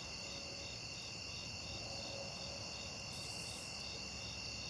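Crickets chirring steadily in several overlapping high notes, one of them pulsing about four times a second.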